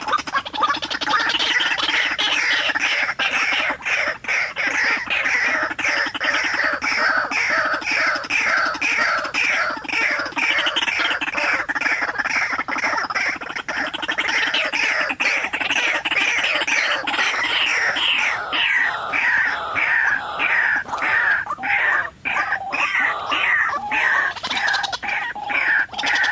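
White-breasted waterhens calling: a long, continuous run of harsh repeated notes, about three a second, each falling in pitch.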